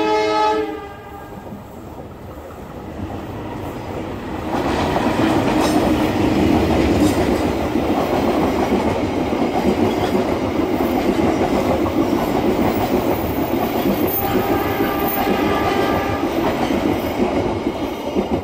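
A passenger train's horn ends its blast just after the start. The train then passes close by: the steady rumble and clatter of the coaches' wheels on the rails grows loud about four seconds in and stays loud to the end.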